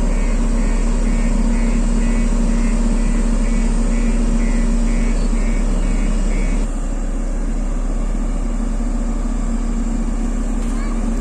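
Diesel engine of a JCB road roller running steadily under work, with a high beeping repeating about three times a second that stops a little over halfway through, when the overall sound drops slightly.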